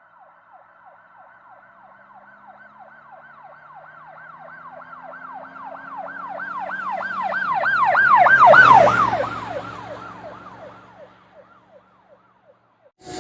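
An emergency vehicle's siren yelping, a quick up-and-down tone about three times a second, as the vehicle passes by. It grows louder to a peak about two-thirds of the way through, drops in pitch and fades away, with the vehicle's engine heard underneath.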